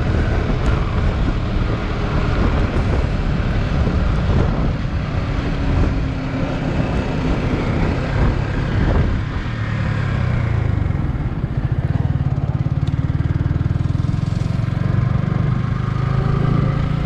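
Motorcycle engine running while riding, under a steady noisy rush; the engine note grows steadier and stronger about ten seconds in.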